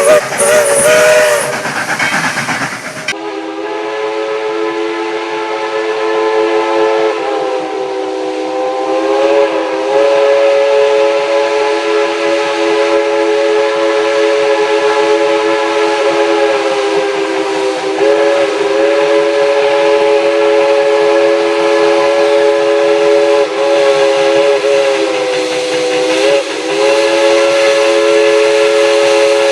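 Steam locomotive's chime whistle sounding several notes at once in one long, continuous blast of over twenty seconds, its pitch dipping briefly a few times as the valve is worked. It opens with about three seconds of whistle and hissing steam that cut off suddenly.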